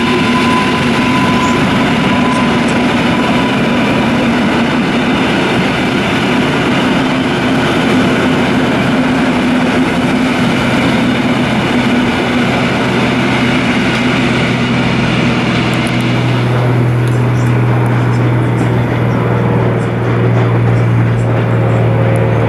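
Electric train running along the tracks, a steady rolling noise with a high whine. About sixteen seconds in it gives way to the steady low drone of a light propeller plane's engine.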